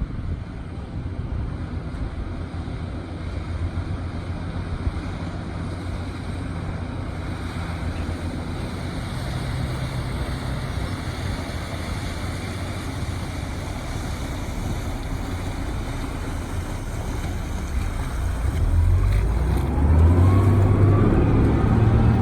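Small ferry boat's engine running steadily under water rush and wind on the microphone. About nineteen seconds in, the engine gets louder, with a rising whine.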